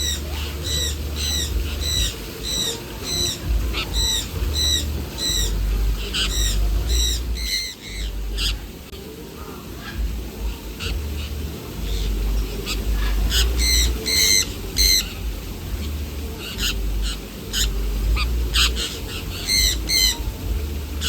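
A bird squawks over and over, about twice a second at first, then in irregular bursts after about eight seconds. A low rumble runs underneath.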